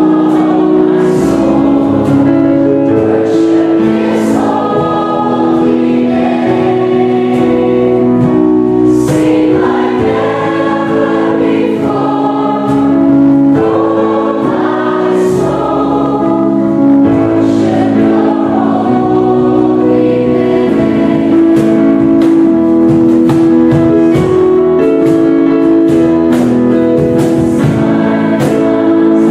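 A choir singing in harmony, holding chords that change every second or so, with the words' consonants audible.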